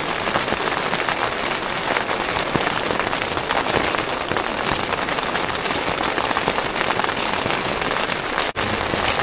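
Steady rain pattering on a tent, a dense hiss of many fine drop hits, with a momentary gap near the end.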